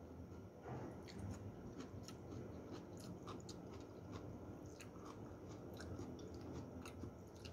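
A person chewing a mouthful of tom yum instant noodles, faint, with many small wet mouth clicks.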